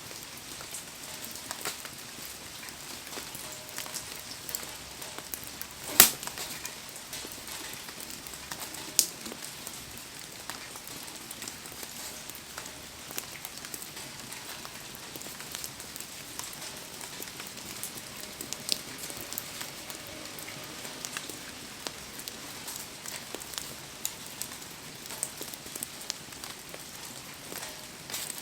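Wood fire crackling with scattered sharp pops under steady heavy rain. One loud pop about six seconds in and another about three seconds later.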